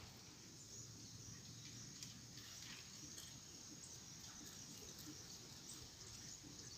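Faint outdoor ambience: a steady high insect drone with scattered short, faint bird chirps.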